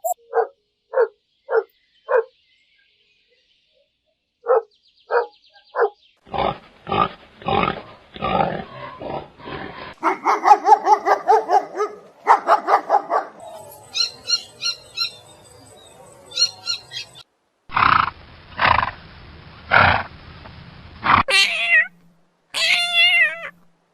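A run of different animals calling, one short clip after another. First come a few brief repeated calls, a silence of about two seconds, and three more calls. Then a fast series of grunting calls, drawn-out tonal calls, high chirps, a few loud hoarse calls, and finally rising and falling cries near the end.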